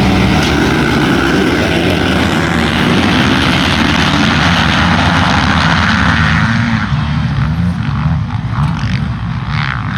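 Dirt bike engine running hard under heavy wind noise. About seven seconds in it eases off and becomes uneven, with short rising revs near the end.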